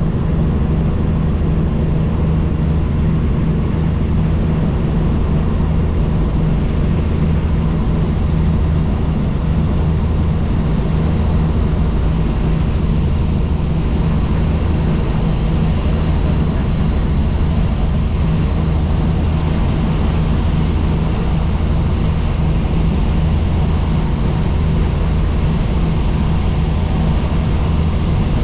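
Helicopter in steady cruising flight: a constant loud drone of rotor and engine, with a steady low hum.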